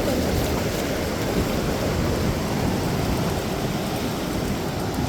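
Steady noise of ocean surf mixed with wind rumbling on the microphone.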